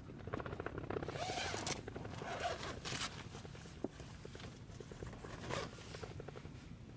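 A zipper pulled in two rasping strokes, about a second in and again at about three seconds, with fine rapid ticking of the teeth between them.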